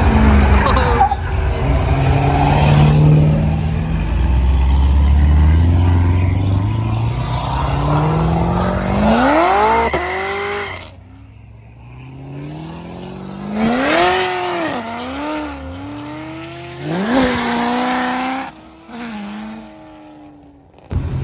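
Car engine revving hard as the car accelerates away, a deep exhaust rumble first and then the pitch climbing and dropping back several times as it shifts up through the gears and fades.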